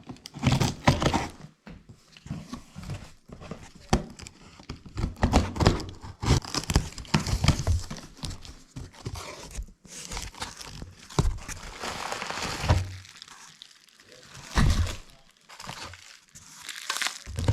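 Irregular rustling, crinkling and knocking of materials being handled, with several low thuds.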